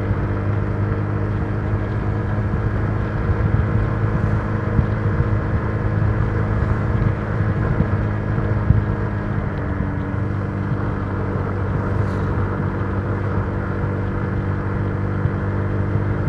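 Honda Giorno 125 scooter's single-cylinder engine running at a steady cruising speed, holding an even pitch with only a slight easing about two-thirds of the way through.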